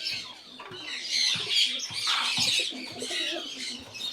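Many birds chirping at once, with pigeons cooing low and wings flapping briefly in a pigeon loft.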